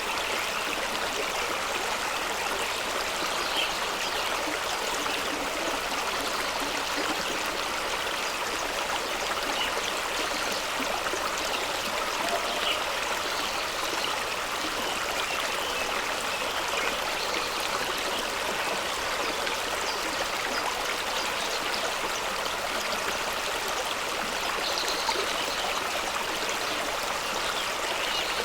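Fast-flowing stream of water running over rocks: a steady, even rush with small splashes.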